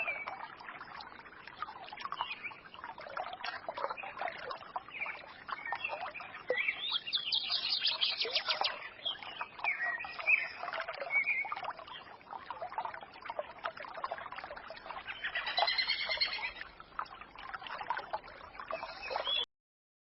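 Several songbirds chirping and singing over the murmur of a forest stream, with a fast trill about seven seconds in and another run of chirps near the end. The sound cuts off suddenly just before the end.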